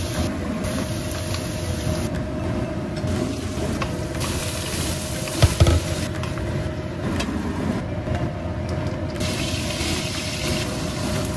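Vegetables sizzling in a hot wok as they are stir-fried with a wooden spatula, over a steady hum, with a sharp knock about five and a half seconds in.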